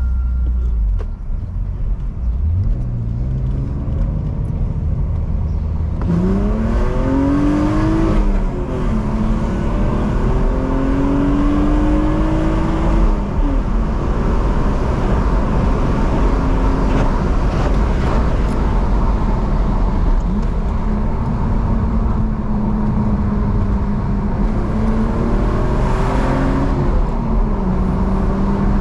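BMW E46's engine pulling up through the revs, with a drop in pitch about eight seconds in as it changes gear. It then climbs again and holds a steady pitch while cruising, with a brief dip and recovery near the end.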